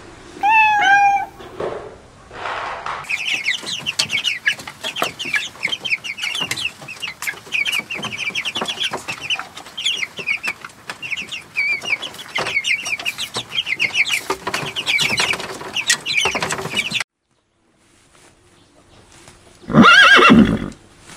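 Chickens: a crowd of chicks peeping in fast, high, falling chirps with clucking among them, which stops abruptly after about seventeen seconds. A short call comes in the first second, and one loud call near the end.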